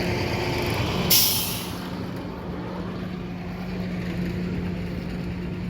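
A sudden short hiss of escaping air about a second in, over a steady engine hum.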